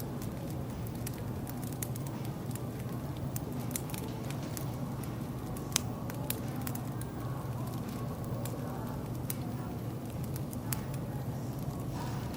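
Wood fire crackling: irregular sharp pops and snaps, one louder pop near the middle, over a steady low hum.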